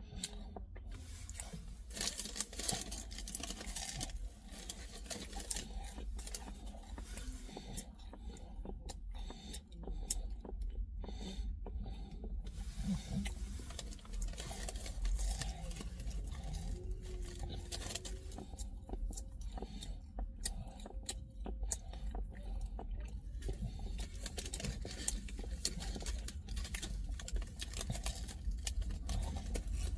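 A person chewing and crunching mouthfuls of a döner kebab close to the microphone, with many irregular small clicks and crackles over a steady low hum.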